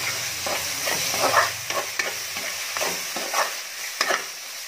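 Masala paste with ginger-garlic paste sizzling in hot oil in a pan, while a spoon stirs and scrapes it in a string of sharp strokes about every half second.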